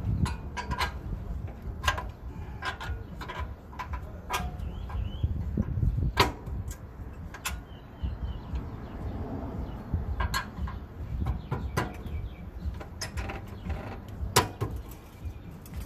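Irregular metal-on-metal knocks with a short ring, a hand tool used as a hammer to drive a tight-fitting hitch part or bolt into place on an ATV's frame, the fit made tight by paint. There is a steady low rumble underneath.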